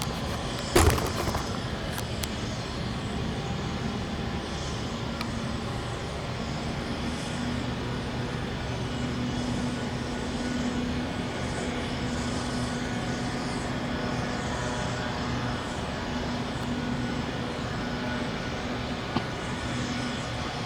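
Steady vehicle noise with a low engine hum, and a single sharp knock about a second in.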